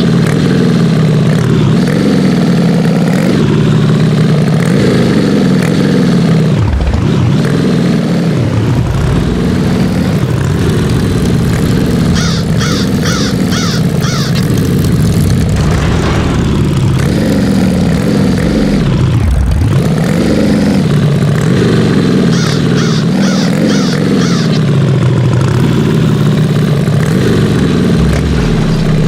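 Heavy 4x4 truck engine working hard, its revs rising and falling over and over. Twice a short run of quick high-pitched pulses, about five each, cuts through.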